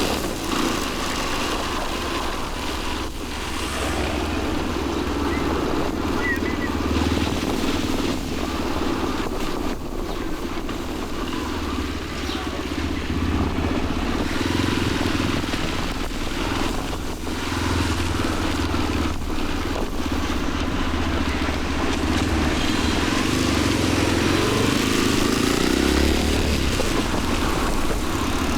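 Motorcycle engine running steadily while riding in city traffic, its pitch wandering a little with the throttle.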